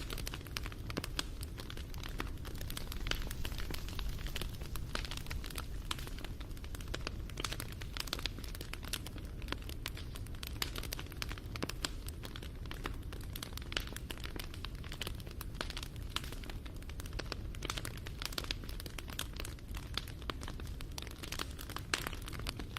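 Wood fire crackling, with many small sharp pops and snaps, several a second, over a steady low rumble of the flames.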